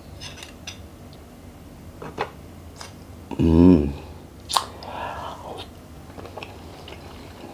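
A man eating a grilled oyster up close: wet chewing and biting, with a few light clicks of spoon against shell and a short voiced 'mm' about three and a half seconds in.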